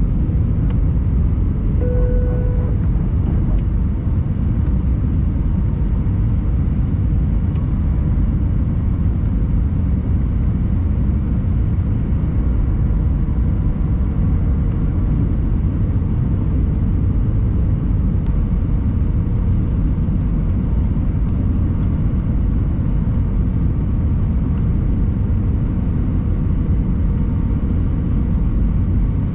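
Airbus A320 cabin noise on final descent: the steady roar of airflow and engines heard from inside the passenger cabin. A short tone sounds about two seconds in.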